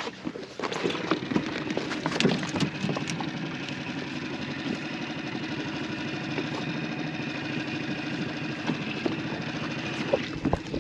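Dinghy outboard motor starting about a second in, with some knocks and clatter as it catches, then running steadily.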